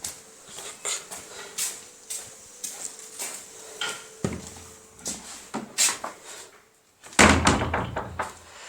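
Footsteps with scuffs and small knocks, then, after a brief drop-out about seven seconds in, a louder rattling clatter near the end.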